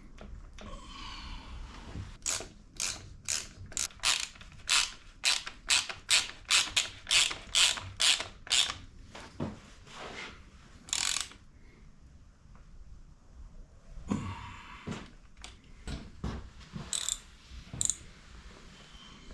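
Hand ratchet wrench clicking as it is swung back and forth, a steady run of about three clicks a second for several seconds, then a longer rasping click and a few scattered knocks of tools and parts.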